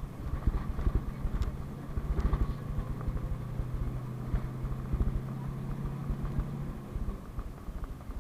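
A PAZ-32054 bus on the move, heard from inside: a steady engine drone that stops about seven seconds in, over constant low knocking and rattling.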